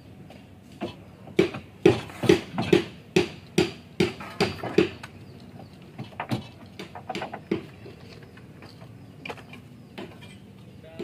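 A hammer striking repeatedly: about nine sharp blows at a steady pace of roughly two and a half a second, each with a short ringing note, then a few lighter taps.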